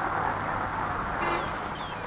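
Faint background ambience with a low steady hum, and four short high downward chirps in the second half.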